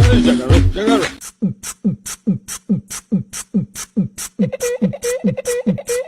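A song with a steady beat gives way, about a second in, to a fast rhythmic beat of falling low booms alternating with sharp hissing ticks, about four a second. A held humming note joins the beat about four seconds in.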